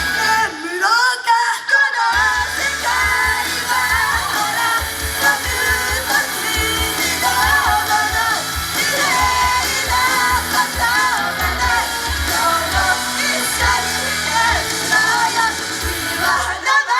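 Live idol-pop song played loud through a venue's PA, with singing over a dense backing track; the bass drops out briefly about half a second in and again near the end.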